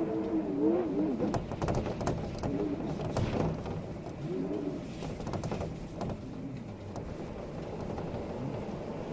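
Wind howling, its whistling tone rising and falling in slow swells over a steady rush, with scattered sharp clicks and knocks in the first few seconds and again around five to six seconds in.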